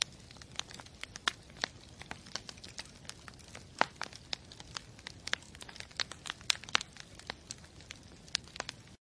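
Wood campfire crackling, with irregular sharp pops and snaps over a low steady hiss; it cuts off abruptly near the end.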